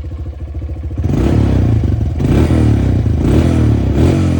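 Honda CRF125F dirt bike's single-cylinder four-stroke engine on its stock exhaust, idling and then, from about a second in, revved in short throttle blips about once a second, each falling back in pitch. The engine has just been warmed up.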